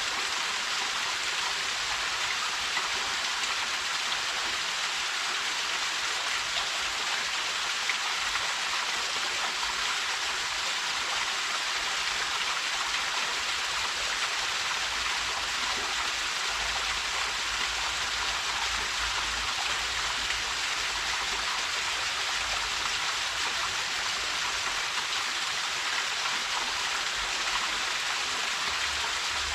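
Small waterfall pouring steadily into a mountain stream: an even, unbroken hiss of falling and splashing water.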